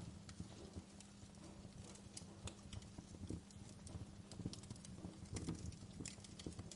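Wood fire burning in a fireplace, crackling with many small irregular pops and snaps over a low rumble of flames.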